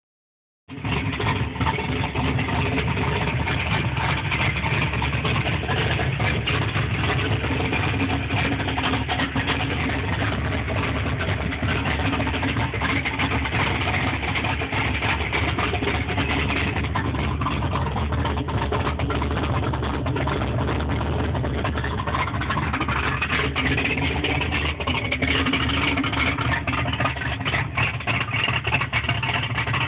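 Turbocharged Ford Mustang V8 fitted with an F-cam idling steadily on its first start-up.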